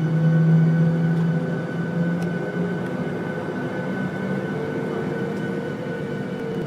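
Airliner cabin noise: the steady hum and rush of the jet engines and air systems heard from inside the passenger cabin, with a low droning tone that eases off a couple of seconds in.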